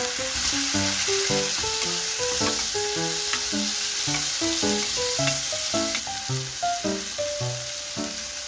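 Bacon, sliced garlic and onion sizzling in hot oil in a pot, stirred with a wooden spatula. A light melody of background music plays over the steady sizzle.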